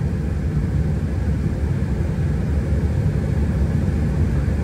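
Steady low rumble of engine and airflow noise inside an airliner's cockpit.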